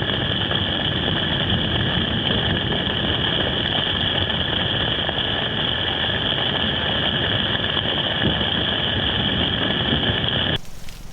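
Heavy rain pouring steadily during a thunderstorm, with a constant high-pitched ringing drone over it. It cuts off abruptly near the end.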